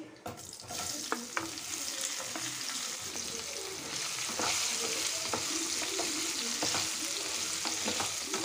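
Boiled drumstick pieces sizzling in hot oil with a tempering in a nonstick kadai, stirred with a wooden spatula that clicks against the pan now and then. The sizzle starts as the pieces go in and grows louder about halfway.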